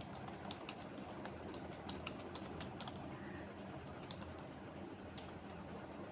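Computer keyboard typing: irregular runs of keystrokes, thickest in the first three seconds, then a few scattered keys. A steady low hum of background noise runs underneath.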